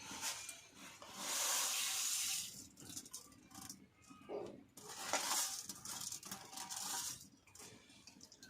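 Cooking sounds: pots and utensils clinking, with two long bursts of hissing noise, about a second in and again about five seconds in.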